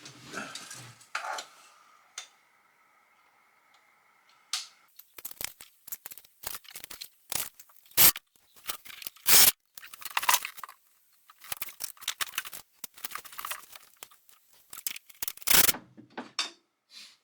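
An irregular series of short, sharp rasping and clicking noises, like something being torn or cut, starting a few seconds in.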